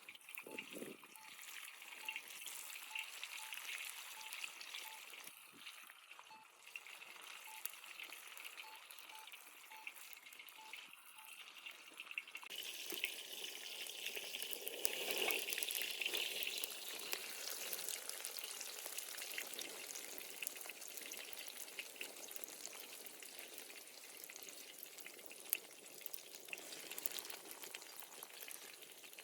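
Food sizzling as it fries in a pan: a steady hiss dotted with small crackles, growing fuller and louder about twelve seconds in.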